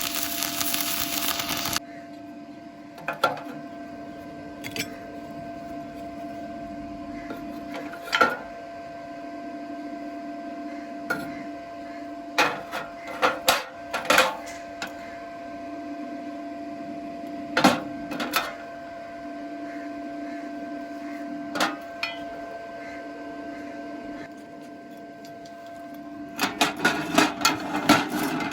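Arc welding on thin square steel tube, crackling and sizzling for the first two seconds and then cutting off. A steady hum then runs on while metal is knocked and clinked a dozen or so times, and a rapid run of crackling returns near the end.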